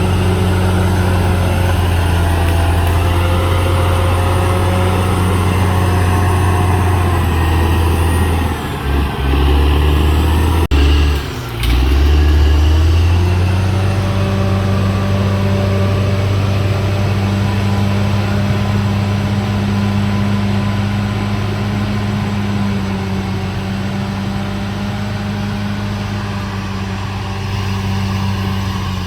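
Caterpillar D6R XL bulldozer's diesel engine running steadily. Its note dips and wavers for a few seconds about a third of the way in, with a sharp click, then settles back to a steady run.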